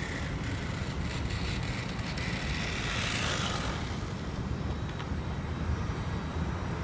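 Steady low rumble of outdoor ambience and wind on the microphone, with a brief swell of hiss about three seconds in.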